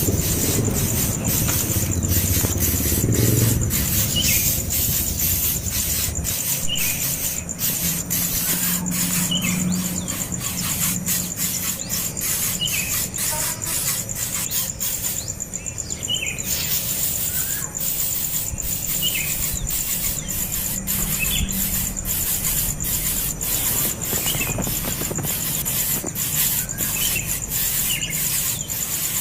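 Short, high calls from a young bird, repeated every second or two, over a steady high hiss.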